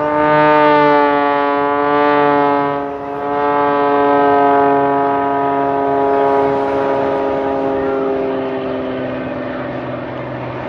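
Propeller aerobatic plane flying past at high power, a loud buzzing engine-and-propeller note that slides slowly down in pitch as it goes by, dipping briefly about three seconds in.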